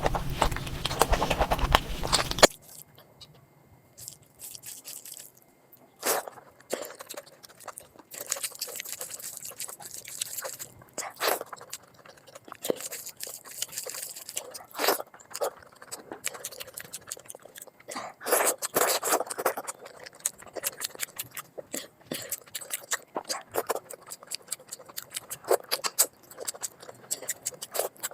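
Close-miked eating sounds: chewing and wet mouth smacks of someone eating curry and rice, as many short, sharp clicks at irregular intervals. A louder, denser burst of eating noise in the first two seconds or so cuts off abruptly.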